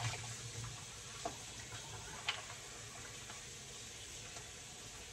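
Quiet kitchen room tone with a few faint clicks, the clearest about two seconds in.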